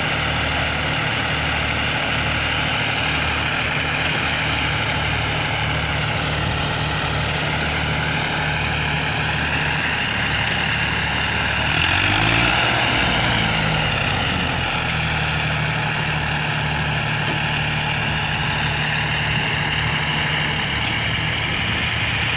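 Massey Ferguson 7250 tractor's diesel engine running steadily near idle, revving up briefly about halfway through and settling back.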